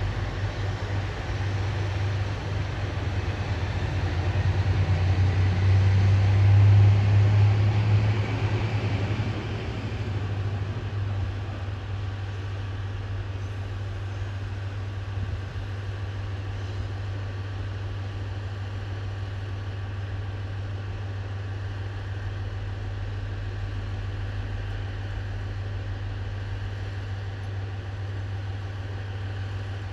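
Diesel railcar engine running with a steady low hum. It grows louder to a peak about seven seconds in, falls back around eleven seconds, and then holds at a steady, lower level.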